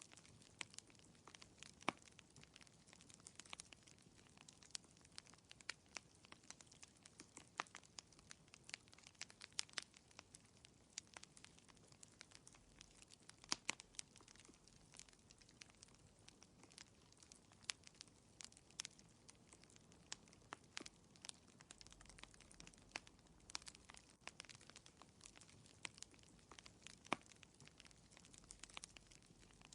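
Wood fire crackling in a fireplace: faint, irregular pops and snaps over a soft hiss, with a few sharper snaps standing out.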